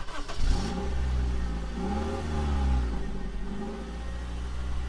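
Car engine running, revving up and easing back twice in the first few seconds, over a steady low idle hum.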